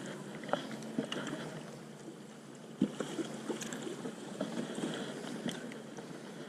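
Light water-and-boat background with scattered small clicks and knocks from fishing in a boat, and one sharp knock about three seconds in.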